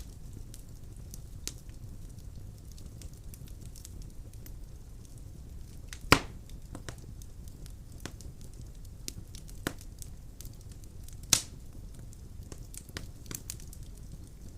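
Firewood burning in a fireplace, crackling with scattered small ticks over a low steady rumble. Two louder pops stand out, about six seconds in and again about eleven seconds in.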